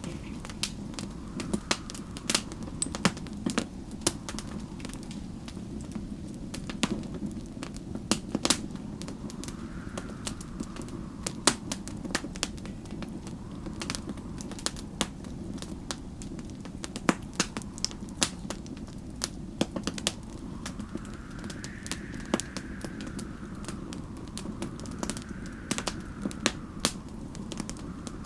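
Wood fire crackling and popping in dense, irregular snaps over a steady low rumble of the flames. Behind it, storm wind howls in slow gusts that rise and fall in pitch, the strongest about two-thirds of the way through.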